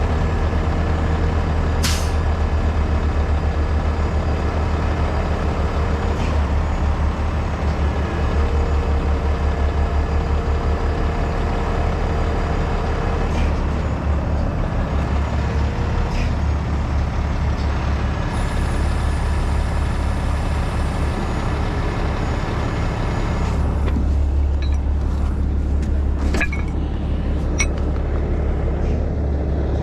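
A heavy rotator tow truck's diesel engine runs steadily with a deep, even hum. A few short clicks or knocks come through, once about two seconds in and several more near the end.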